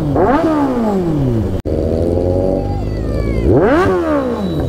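Kawasaki motorcycle engine revving up and down under way, its pitch climbing in quick sweeps and falling away as the rider works through the gears, with one sharp rise about three and a half seconds in.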